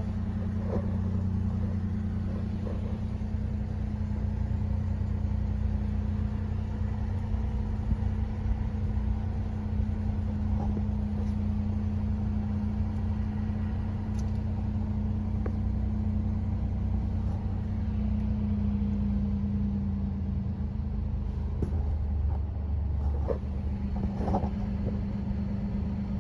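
A 2018 Mini 5-door's engine idling steadily, a low hum heard from inside the cabin.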